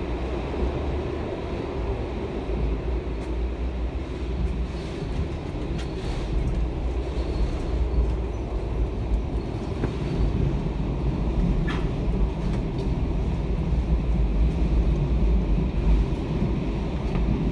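Night train running along the track, heard from inside the passenger carriage as a steady low rumble, with a few light clicks.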